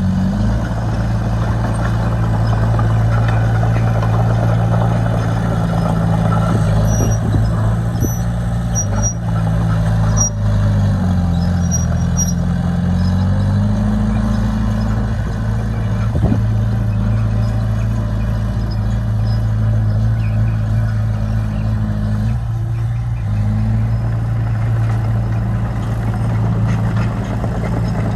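Diesel engine of heavy earthmoving machinery running steadily under load. About halfway through its pitch drops briefly, then rises again.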